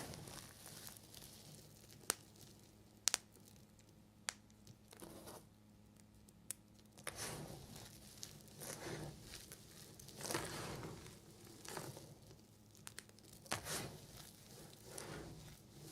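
Knife cutting through bars of soap: several sharp clicks, then a run of crackling strokes about a second apart as the blade goes through the soap.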